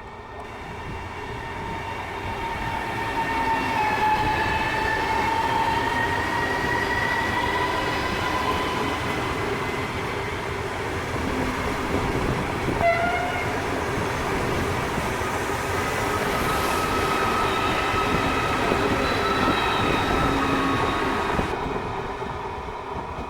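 A train passing through a station, its rumble building over the first few seconds, holding, then fading near the end. Over it runs a steady high whine that dips slightly in pitch early on, breaks off briefly about halfway, and comes back higher.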